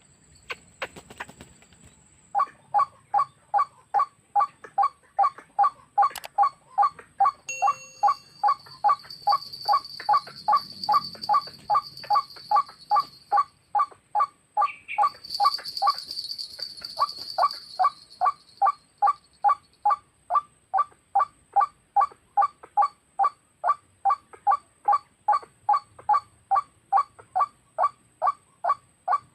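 White-breasted waterhen (ruak-ruak) call: a long series of loud, evenly repeated croaking notes, about two and a half a second, with a short break near the middle. This is the waterhen lure call used to draw the birds to the snares.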